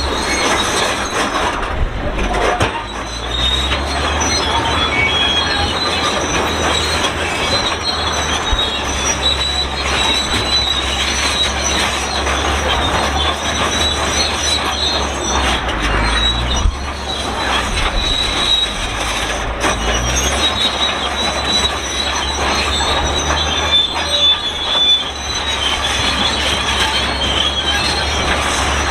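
Shantui SD32 crawler bulldozer's steel tracks squealing loudly and continuously as it travels, over the low, steady rumble of its diesel engine.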